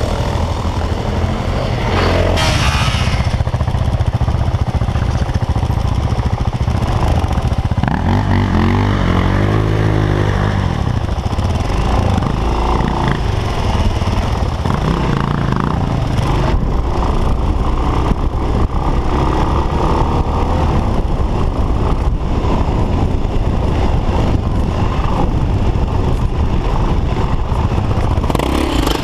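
Single-cylinder enduro motorcycle engine running under load over rough dirt, its revs rising and falling once near the middle as the rider works the throttle, with a knock about two seconds in.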